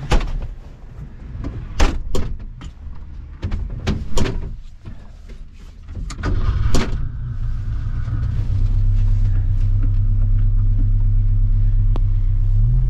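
Renault 4's small four-cylinder engine: a door shuts and a few knocks come in the first seconds, then about six seconds in the engine comes up and settles into a steady idle.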